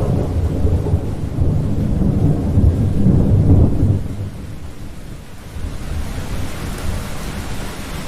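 Thunder rolling in a long, loud low rumble that fades about halfway through, leaving steady heavy rain hissing.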